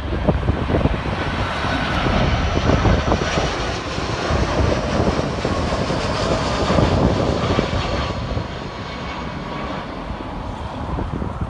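Airbus A319 airliner's jet engines on landing approach: a steady rushing noise with a faint high whine.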